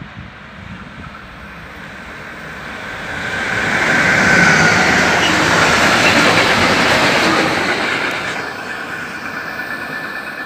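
Freight train of open steel wagons passing close by on the track. The wheel noise builds as it approaches, is loudest from about four to seven seconds in, then fades as the train moves away.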